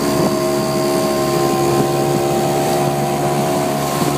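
Small motorboat's engine running at a steady speed, a continuous even drone.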